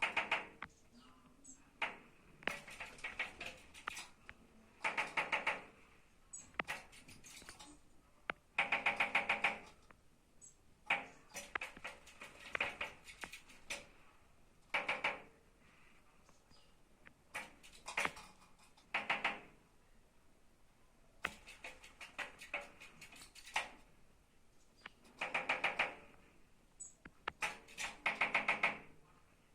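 A bird pecking rapidly with its beak, in repeated bursts of quick taps, each burst under a second long and coming every second or two.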